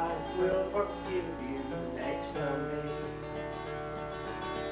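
Acoustic guitar playing the instrumental close of a country song: a run of notes, then a held chord from about two and a half seconds in.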